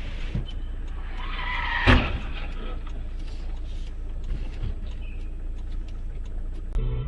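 Car crash heard from inside a vehicle: over steady road rumble, a brief rising squeal runs into one sharp, loud bang about two seconds in, followed by faint scattered clicks.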